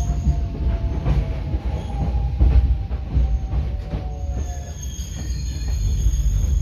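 Hakone Tozan Line train running with a steady low rumble, its wheels squealing against the rails in a thin, wavering tone that dies away about three-quarters of the way through. Scattered knocks come from the wheels passing over rail joints.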